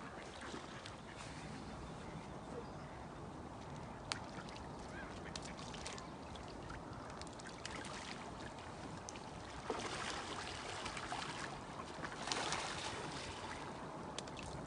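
Lakeside ambience: ducks faintly among a steady rushing hiss of water or wind, with scattered small ticks. The hiss swells louder twice, about ten and twelve seconds in.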